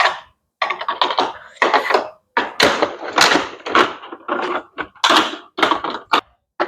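Hard plastic toy pieces clattering and knocking, with about a dozen irregular clacks and rattles in quick succession.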